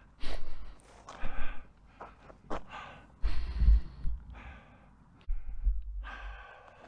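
A man breathing hard, about five heavy breaths in and out with short gaps between them: he is winded from exertion. Low rumbles run under several of the breaths.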